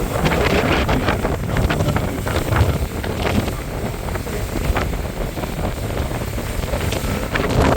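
Wind buffeting the microphone aboard a moving boat, in irregular gusts over a low, steady rumble.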